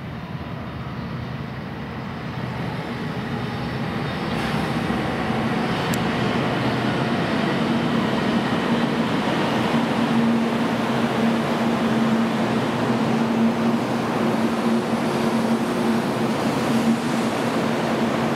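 JR Kyushu 800 series Shinkansen train, six cars, pulling into a station platform. Its running noise grows louder over the first few seconds as it comes alongside, then holds steady with a low hum.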